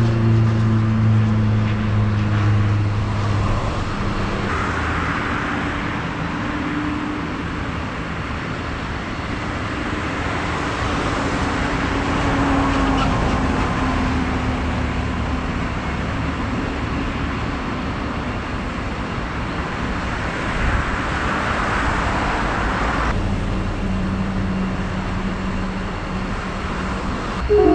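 Car driving: engine running with its pitch shifting as it changes speed, over steady road noise.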